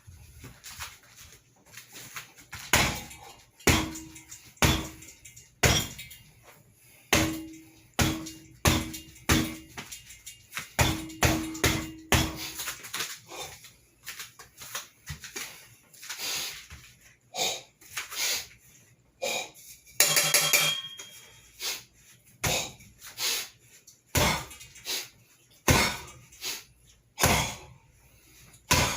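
Repeated knife-hand strikes against a metal bar: a long series of sharp hits, about one a second, some leaving a short low metallic ring. About twenty seconds in there is a brief rattling clatter.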